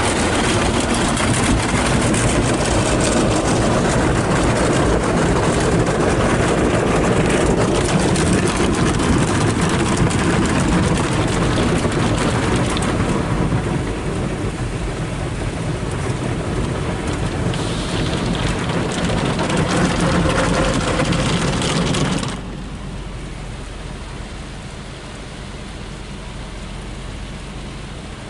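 Water spraying onto a car in a Ryko SoftGloss MAXX automatic car wash: a loud, dense hiss like heavy rain that drops off sharply to a quieter hiss about 22 seconds in.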